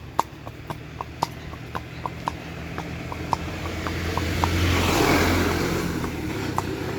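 Horse's hooves clip-clopping at a walk, sharp clicks about three a second. A car passes by, getting louder to a peak about five seconds in and then fading.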